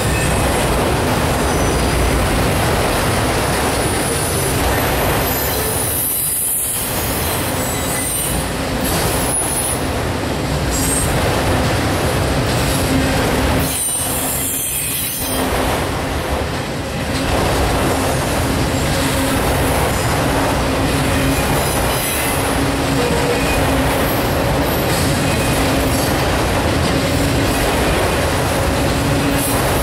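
A Norfolk Southern autorack freight train's cars rolling past close by on steel wheels: a loud, steady rumble and rattle, with high-pitched wheel squeal at times. The noise dips briefly twice.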